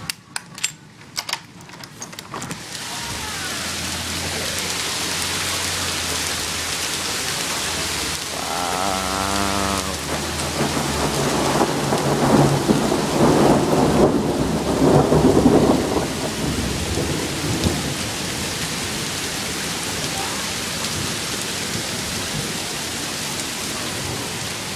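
Hailstorm: hail and rain pelting down in a dense, steady hiss, louder and rougher for several seconds in the middle. A few sharp clicks come in the first couple of seconds, and a brief wavering tone about nine seconds in.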